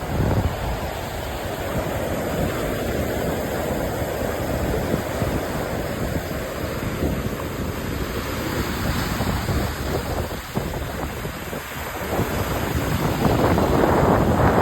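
Strong wind buffeting the microphone over the wash of waves breaking on a beach, louder near the end.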